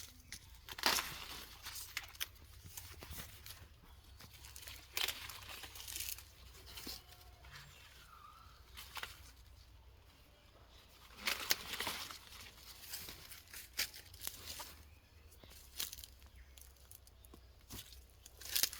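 Dry corn leaves rustling and crinkling in irregular short bursts, over a faint steady low rumble.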